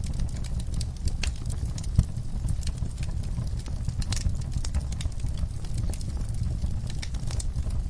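Wood fire burning in a fireplace: a low steady rumble of flames with irregular crackles and snaps, one sharper pop about two seconds in.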